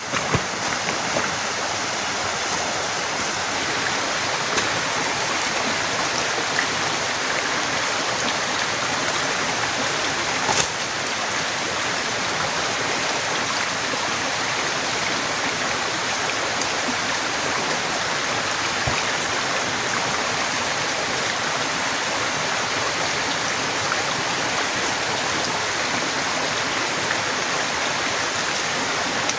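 Heavy, torrential rain pouring steadily as a dense, even hiss, with a single click about ten seconds in.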